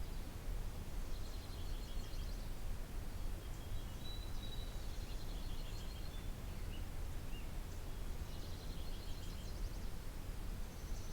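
Songbirds singing three short phrases of rapid high notes, a few seconds apart, over a steady low rumble.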